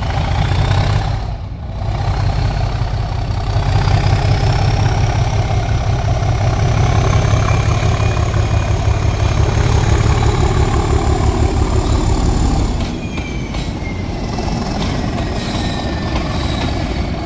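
Class 37 diesel-electric locomotive's engine working hard, a deep, pulsing throb with a turbocharger whistle rising slowly in pitch. About two-thirds of the way through the sound drops back and becomes lighter.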